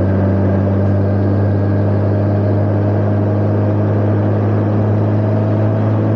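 Honda Gold Wing motorcycle engine running at a steady speed, an even low hum that holds one pitch throughout.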